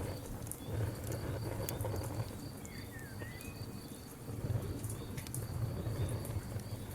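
Campfire burning, wood crackling with a low steady rumble and a few sharp pops. Behind it an insect chirps steadily at a high pitch, about three to four chirps a second, and a short bird-like call sounds once near the middle.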